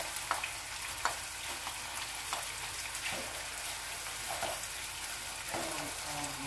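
Sliced garlic and mushrooms sizzling in plenty of olive oil in a non-stick frying pan, a steady frying hiss, with a spatula lightly scraping and tapping the pan about once a second.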